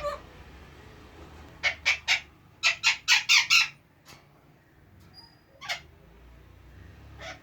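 Alexandrine parakeet calling in short bursts: three quick calls about two seconds in, then a louder run of five close together, and a single call near six seconds.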